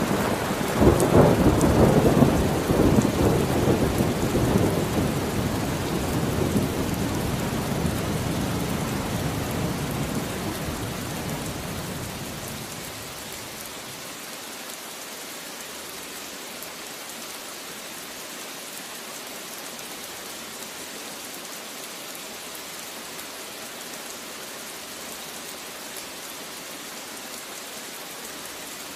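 Steady rain with a long roll of thunder that is loudest in the first few seconds and dies away after about twelve seconds, leaving the even hiss of the rain.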